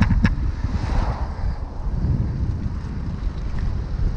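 Wind rumble on a foam-covered GoPro microphone on a moving road bike, with a fainter hiss of tyres on a wet road and two short clicks right at the start.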